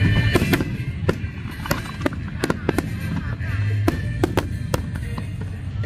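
Aerial fireworks bursting in an irregular string of sharp bangs and crackles over a low rumble.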